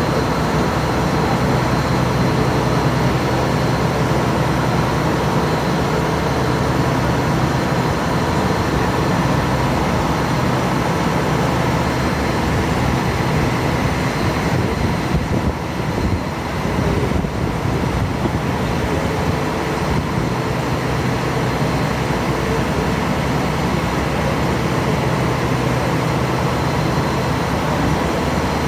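A passenger ferry's engine running steadily underway, a continuous loud drone with a low hum.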